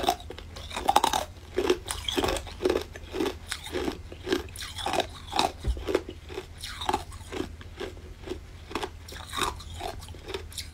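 Crunching and chewing of a frozen ice treat, a steady run of short crunches about twice a second.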